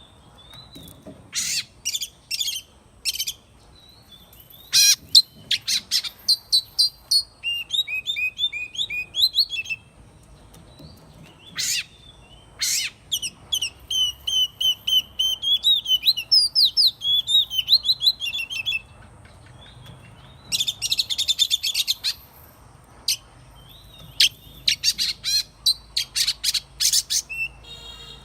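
Oriental magpie-robin singing: a varied song of clear whistled notes, sharp high notes and rapid trills, delivered in phrases with short pauses between them.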